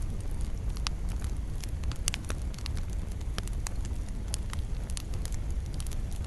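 Campfire burning: wood crackling with frequent irregular sharp pops over a steady low rumble of flames.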